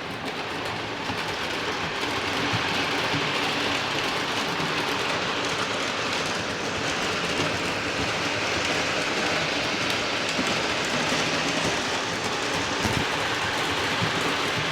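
O scale model train running on the layout's track: a steady rolling rattle of wheels on rail with a faint low hum underneath.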